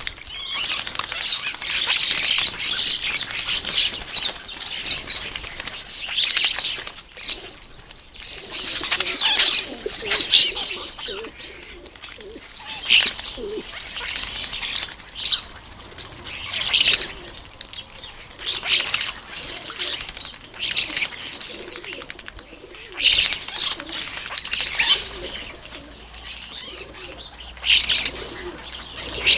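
Common starlings screeching and chattering in repeated harsh bursts, squabbling over garden bird feeders.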